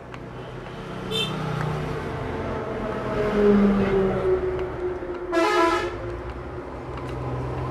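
A vehicle horn honking twice: a brief faint toot about a second in and a louder half-second honk about five seconds in, over a steady background din.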